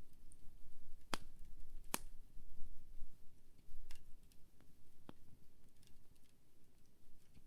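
Wood campfire crackling: scattered sharp pops and ticks from burning firewood over a low steady rumble, with the loudest cracks about one and two seconds in and another about five seconds in.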